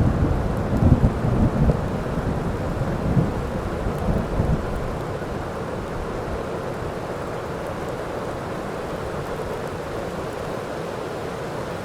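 Heavy rain falling steadily, with a low roll of thunder rumbling through the first few seconds and fading out, leaving the rain alone.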